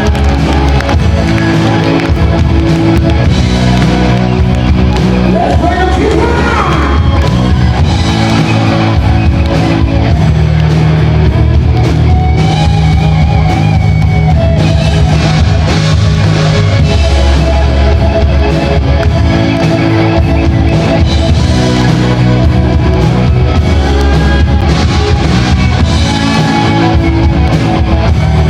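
Loud live rock band music: electric guitars, bass and a drum kit, with some singing.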